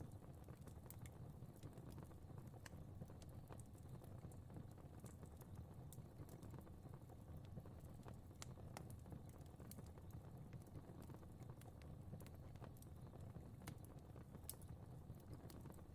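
Faint crackling fire: irregular sharp pops and ticks scattered over a low, steady rumble.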